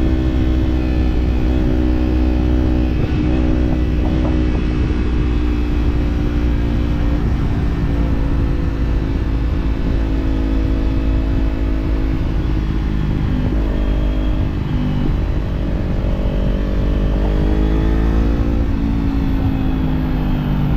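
Kawasaki Z-series parallel-twin motorcycle engine with an aftermarket slip-on exhaust, running on the move at a steady pitch, then climbing through the revs about two-thirds of the way in and dropping back near the end.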